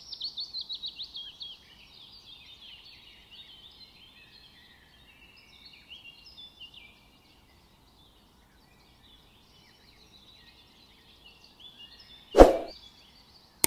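Birds chirping in a string of quick, falling chirps, loudest in the first two seconds and then fainter. Near the end comes one loud short thump, then a sharp click.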